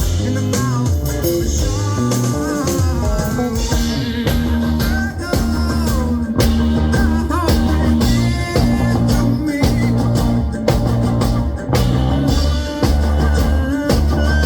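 A live rock band playing a song, with guitar to the fore over a full low end.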